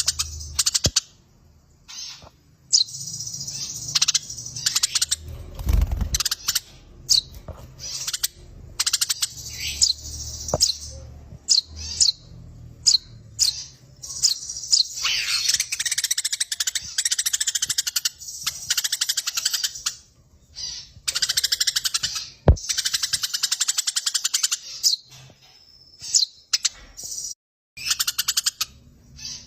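Eurasian tree sparrows chattering in long runs of rapid, rolling chirps, the excited calling of sparrows squabbling, broken by short pauses.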